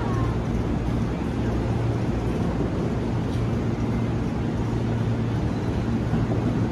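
Steady low rumble of an electric commuter train approaching the platform, with a faint hum partway through.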